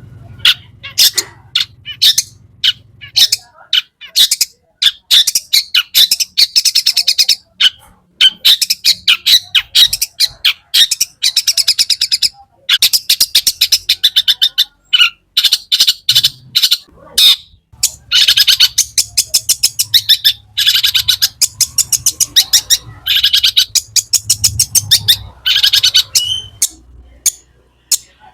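Long-tailed shrike (cendet) in full song: loud, fast runs of sharp, high chirps and chattering notes, many to the second, broken by short pauses, the varied mimicry-laden 'isian' song.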